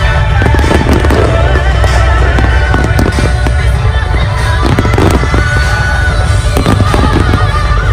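Fireworks display with many aerial shells bursting and crackling in quick succession over a continuous low rumble, with music playing along.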